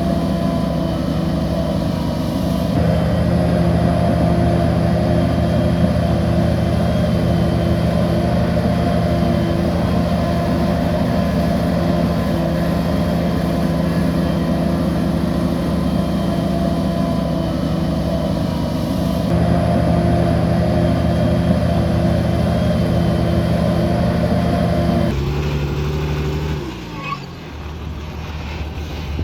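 Bulldozer's heavy diesel engine running steadily under load. Near the end the engine note falls and drops back.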